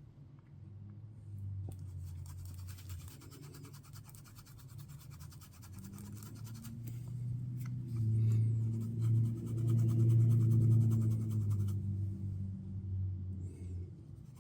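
Fast light scratchy rubbing as mica flakes are burnished into a silicone mold, over a steady low hum that grows louder past the middle.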